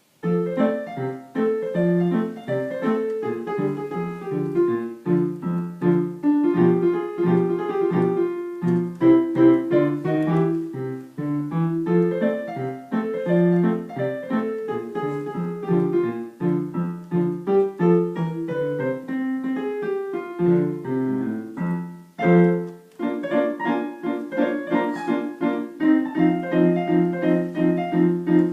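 Solo piano playing a jazz swing exam piece, a melody over repeated chords, with a brief pause about three-quarters of the way through before the playing resumes.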